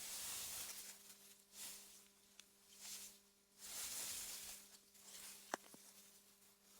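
AI-generated wind through meadow grass: soft, faint gusts of rustling hiss that swell and fade about four times, with one sharp click about five and a half seconds in. A faint steady low hum runs underneath.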